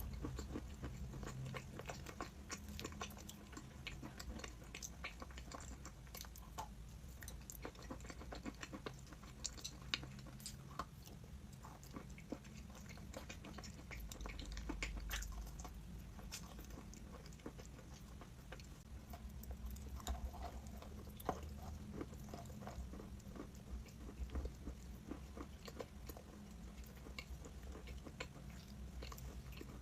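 A person biting and chewing crunchy chalk: a continuous run of small, sharp, irregular crunches and crackles, over a steady low hum.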